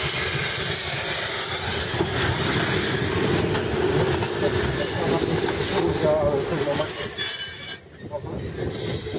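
A train running on the rails with its wheels squealing: a thin, high, steady screech over loud rumbling rail noise, which dies down near the end.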